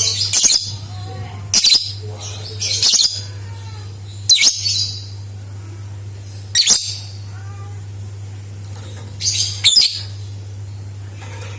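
Lovebird giving short, shrill chattering calls in about six bursts of half a second or less, a second or more apart. A steady low hum runs underneath.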